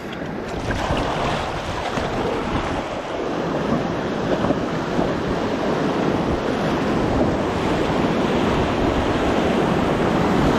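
Rushing river water around a raft, a steady roar of moving water with wind buffeting the microphone; it grows a little louder about three seconds in.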